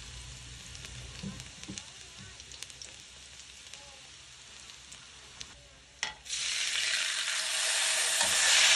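Minced garlic sizzling in hot oil in a wok, with small scattered pops. About six seconds in, fish sauce goes into the hot wok and the sizzle suddenly turns much louder.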